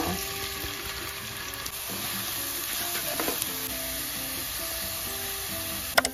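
Food frying and sizzling in a pan while being stirred, under background music with held notes. A sharp clack of a utensil comes near the end.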